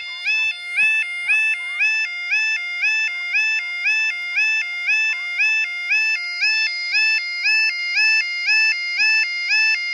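UK level crossing yodel alarm sounding continuously, a two-tone warble switching between a higher and a lower pitch about twice a second. It warns road users that the crossing is closing for an approaching train.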